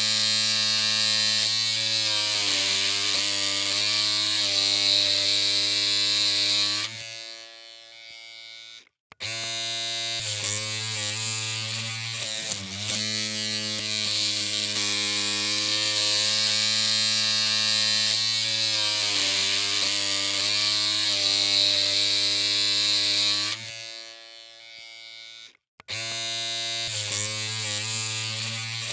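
Electric hair clippers running with a steady buzzing hum. About seven seconds in, and again near the twenty-four second mark, the hum drops away and cuts out for a moment before starting up again.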